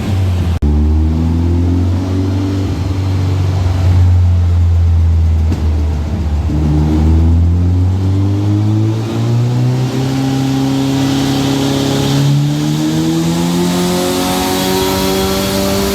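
Turbocharged Nissan FJ20ET four-cylinder engine running hard. It dips briefly about half a second in, holds a low steady note for several seconds, then revs climb slowly and steadily through the second half.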